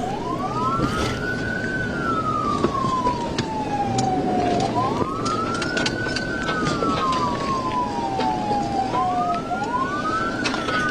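Police car siren on wail, rising quickly and falling slowly in pitch about every four and a half seconds, two tones sounding slightly out of step, over steady road and engine noise.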